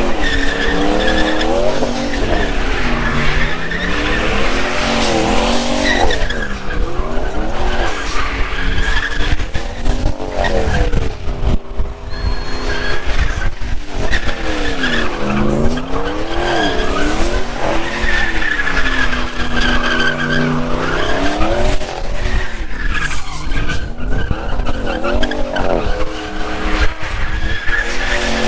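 Truck engine revved up and down over and over while its tyres squeal steadily against the pavement, as in a burnout.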